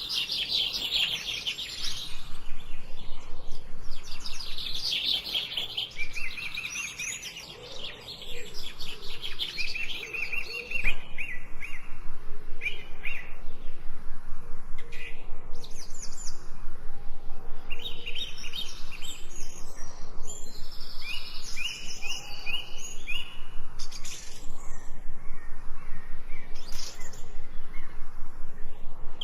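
Songbirds singing, with overlapping chirps and fast trills of rapidly repeated notes, dipping briefly about a quarter of the way in.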